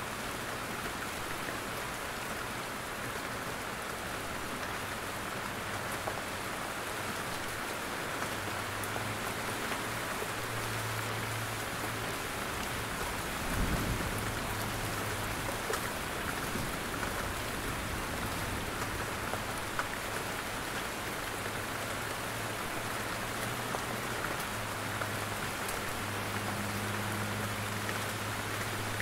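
Steady rain falling in a forest, with scattered sharper drips from the trees. A brief low thump comes about halfway through.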